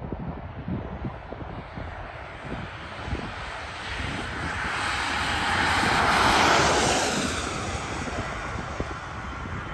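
Jet airliner's engines passing by: a rushing roar that swells to a peak about two-thirds of the way in, drops in pitch as it goes past, then fades away.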